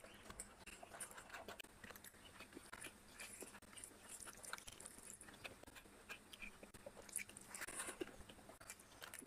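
Close-miked chewing of a mouthful of biryani rice: many small, soft mouth clicks and crackles, with a louder spell of chewing near the end.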